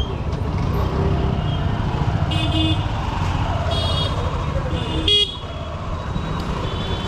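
Honda SP125's 124 cc single-cylinder engine running steadily under road and wind noise in dense traffic, with short high horn beeps from surrounding vehicles about two and a half, four and five seconds in.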